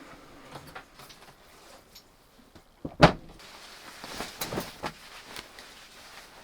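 A single sharp, loud thump about three seconds in, like something being shut, followed by a few lighter clicks and rustles of handling.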